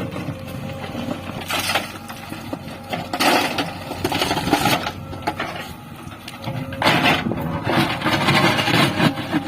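JCB 3DX backhoe loader's diesel engine running at work, with several rushes of rattling noise lasting a second or two each.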